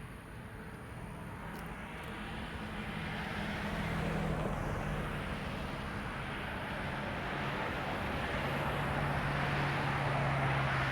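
A distant engine drone that builds over the first few seconds and then holds steady. Its low hum slowly drops in pitch.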